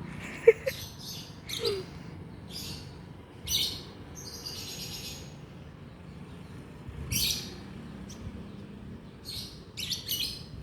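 Lovebirds chirping: short, high chirps in clusters of a few at a time, repeating at irregular gaps.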